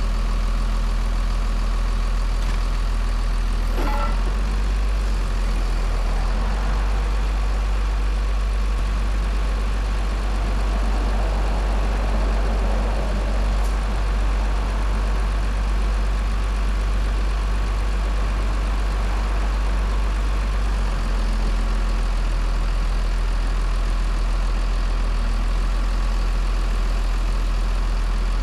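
A mobile crane's engine running steadily at idle, a deep low drone that shifts slightly in pitch about four seconds in and again about twenty-one seconds in.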